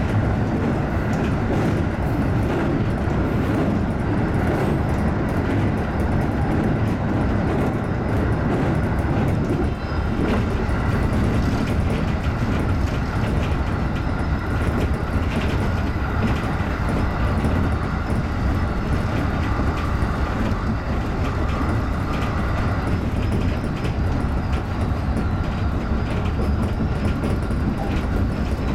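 JR 211 series electric multiple unit running at speed, heard from inside the front car: a steady rumble of wheels on rail with occasional faint clicks and a faint steady hum.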